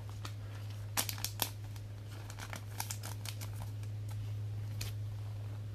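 Trading cards being handled and leafed through, with light crinkling and clicking of card and plastic, a cluster of clicks about a second in. A steady low electrical hum runs underneath.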